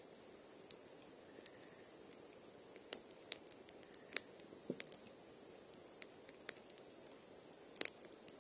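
Wood campfire crackling: scattered sharp pops and snaps over a faint hiss, the loudest pop near the end.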